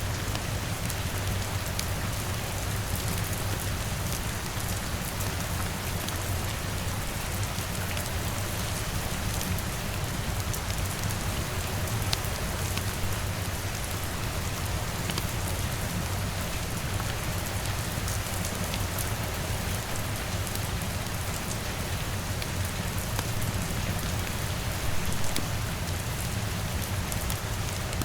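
Steady rain on a window, with scattered small crackles and pops from a wood fire and a low, even rumble underneath; it swells slightly near the end.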